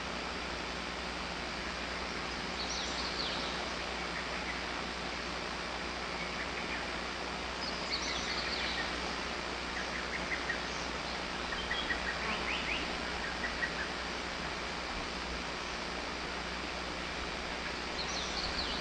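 Wild birds singing in woodland: a few short high phrases and, in the middle, a run of quick repeated notes, over a steady rushing background hiss.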